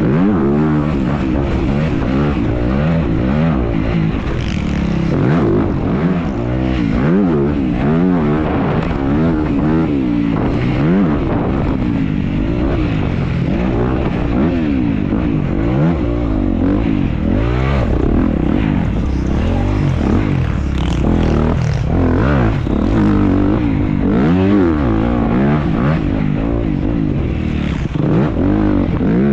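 Dirt bike engine racing, its pitch rising and falling over and over as the rider revs out, shifts and rolls off around the motocross track.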